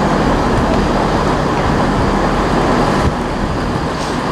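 Class 168 diesel multiple unit running into the platform: a steady rumble of its diesel engines and wheels, with a low hum underneath.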